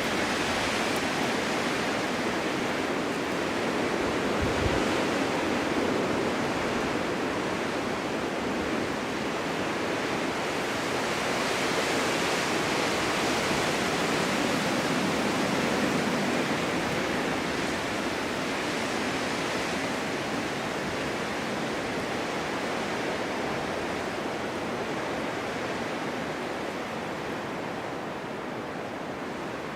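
Strong winter wind in a snowstorm, a steady rushing that swells in gusts and eases slightly near the end, with a brief low buffet about four seconds in.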